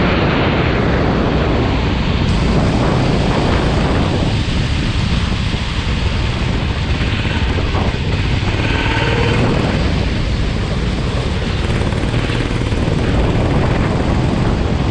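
Go-kart running on a wet track, its engine rising and falling faintly beneath heavy wind rush on the microphone.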